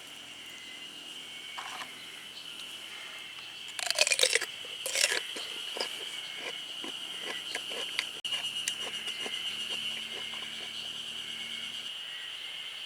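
Steady high insect trill, with a loud burst of crunching about four to five seconds in, then a run of light clicks and taps.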